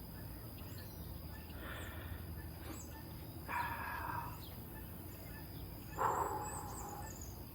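Two animal calls, each lasting about a second, the second coming a little over two seconds after the first.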